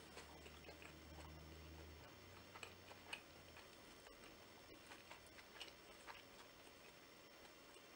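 Faint chewing of a Vietnamese fresh rice-paper roll with lettuce and noodles: soft, irregular small wet clicks from the mouth. A low hum sits underneath for about the first two seconds.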